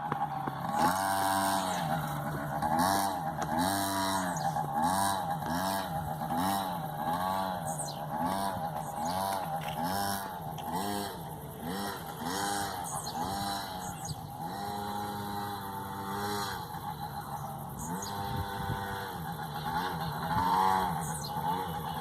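Motocross bike engine revving up and down over and over, its pitch rising and falling about once a second.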